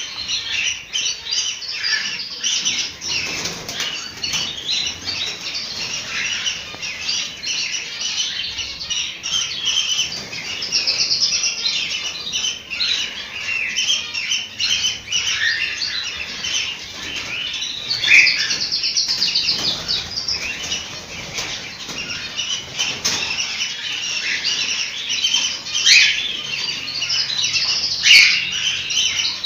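A group of cockatiels chirping and calling continuously, a dense chatter of overlapping whistles, with a few louder calls standing out now and then; this is the song used to stimulate cockatiels into breeding condition.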